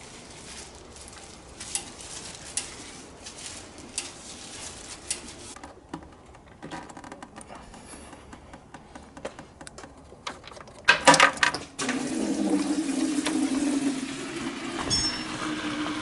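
Scattered metallic clicks and clinks of hand tools and car parts being handled. About eleven seconds in comes a loud clatter, followed by a steady low hum that runs louder.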